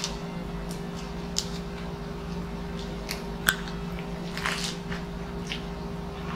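A lettuce wrap being handled, bitten into and chewed: scattered crisp, wet crunches and squishes, with the loudest bite about halfway through. A steady low hum runs underneath.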